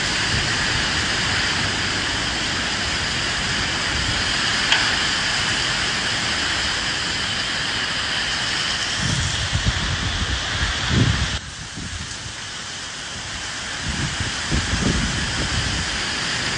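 Steady hiss of rain with gusts of wind rumbling low. About two-thirds of the way through, the sound drops suddenly to a quieter level, then builds back up as the gusts return.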